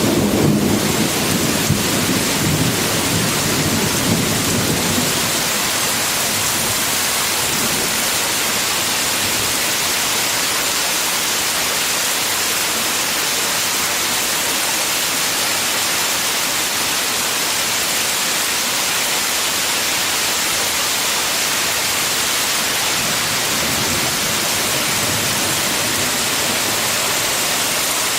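Heavy summer downpour: rain falling hard in a steady hiss, with a roll of thunder rumbling low and dying away over the first few seconds.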